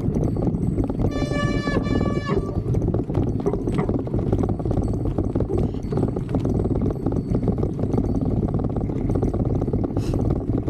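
Wind buffeting the microphone on a fast bicycle descent, a loud steady rumble. About a second in, the bicycle's brakes squeal with one steady high tone for about a second.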